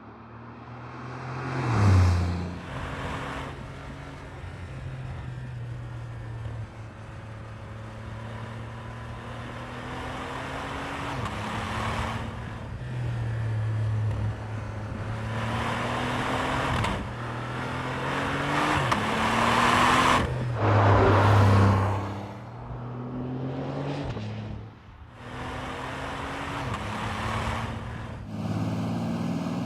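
Porsche 911 Turbo S (992.2) flat-six engine and exhaust under way, accelerating through the gears. The engine note climbs in pitch and drops back at each upshift, many times over, with its loudest pulls about two seconds in and around twenty seconds in.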